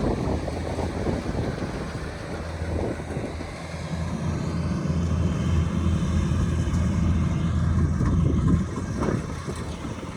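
Kubota DC-105X combine harvester's diesel engine running steadily with a low hum. It grows a little louder about four seconds in and eases off near the end.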